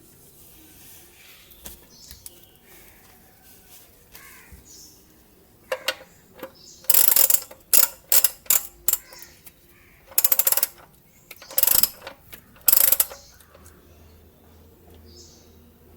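Ratchet wrench clicking in several quick runs through the middle of the stretch, as an engine's oil drain plug is screwed back in and tightened.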